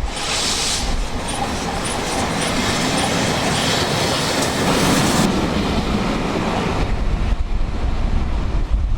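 Steam-hauled train passing close by, its wheels clattering over the rail joints. Wind buffets the microphone near the start and again in the last couple of seconds.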